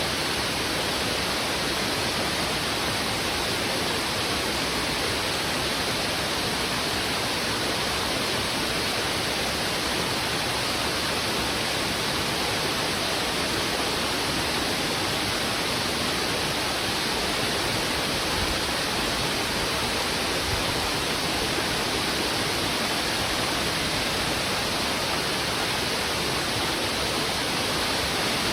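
Heavy river water rushing over rocks: a dense, steady roar of flowing water that does not change.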